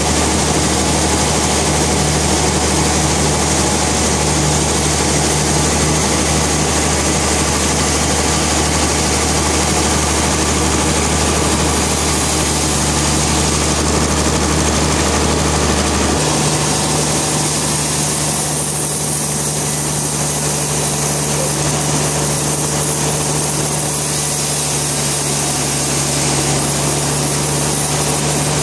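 Sawmill machinery running steadily with a constant hum. About sixteen seconds in, the lowest part of the hum drops away and the sound turns slightly lighter, then it runs on unchanged.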